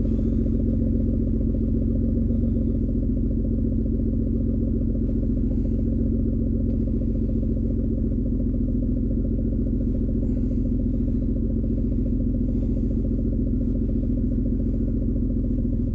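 2003 Ford Escape engine idling steadily and evenly, running smoothly now that its cylinder 4 misfire has been fixed.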